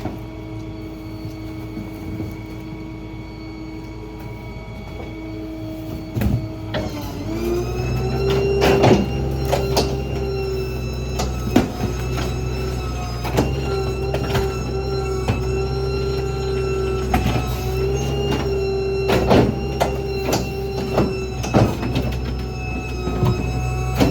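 Rear-load garbage truck running with a steady hydraulic whine. About seven seconds in, the engine speeds up and the whine rises in pitch and gets louder as the packer runs. Repeated knocks and cracks of trash being crushed in the hopper run throughout.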